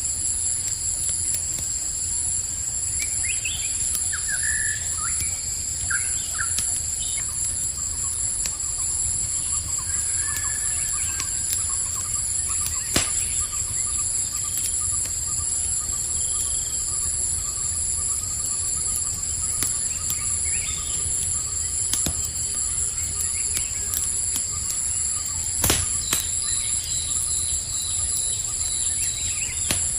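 Campfire crackling, with a few sharp pops from the burning wood, over a steady high chorus of crickets. A few short bird chirps come in a few seconds in.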